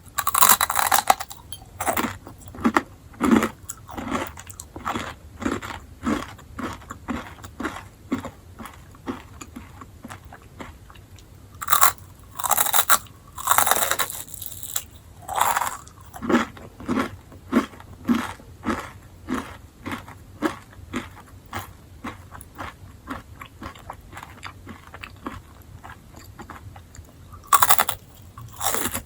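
Chewing enoki mushrooms: a steady run of chewing strokes about two a second, broken by louder crunching bites about a second in, a few between twelve and sixteen seconds in, and near the end.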